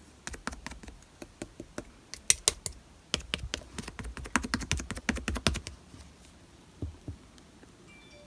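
Slime being squeezed and pressed by hand, giving a quick run of sharp popping clicks that stops about five and a half seconds in, then two more pops near the end.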